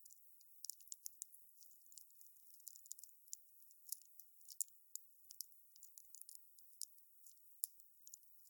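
Wood fire crackling: a faint, irregular stream of sharp pops and snaps, several a second, over a soft high hiss.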